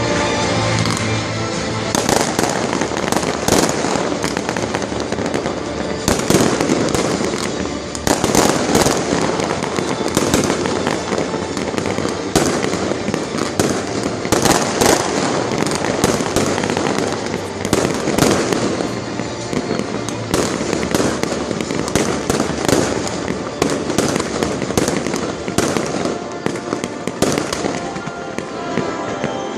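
Fireworks display going off in a dense, irregular barrage of bangs and crackling, with music playing underneath as part of a fireworks show set to music.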